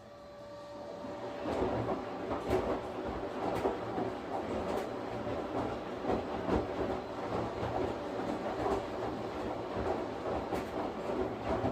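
Washing machine running: a quieter hum with a steady whine gives way, about a second in, to the drum churning, with a rhythmic surge about once a second.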